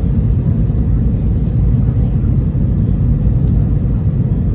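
Steady low rumble inside a jet airliner's cabin in flight: engine and airflow noise during the descent to land.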